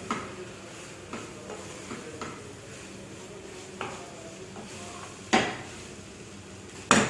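A spatula stirring soya chunks in a cooking pan, with light scrapes and taps against the pan and two loud knocks near the end.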